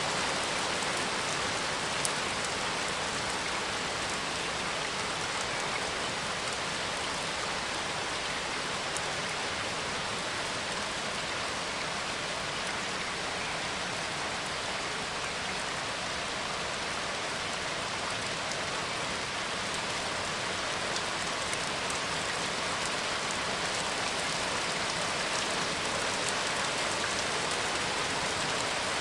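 Steady rain falling, an even hiss with the odd louder drop tapping.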